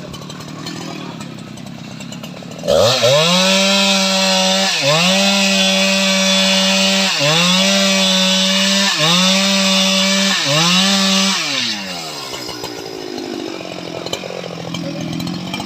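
Stihl MS 881 two-stroke chainsaw idling, then run up to full throttle about three seconds in. Its pitch dips briefly and recovers four times before it drops back to idle near the end.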